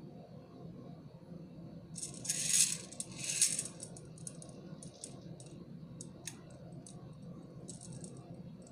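Small plastic candy beads rattling in two short bursts, then a string of single light clicks and a brief faint rattle near the end, as beads are handled and clicked against each other and the work surface.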